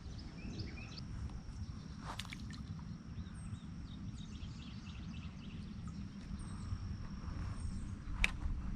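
Wind rumbling on the microphone, with faint high bird chirps and a couple of sharp clicks over it.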